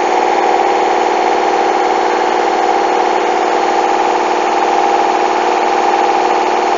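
Hoover washing machine on its spin cycle, its motor and drum running at a steady speed with an even hum made of several steady tones. The bedding load is unbalanced, so the drum shakes as it spins.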